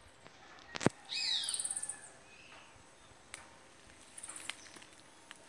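A small bird's rapid, high chirping trill with quick falling notes, starting about a second in and lasting about a second, just after a sharp click; a fainter high trill follows later.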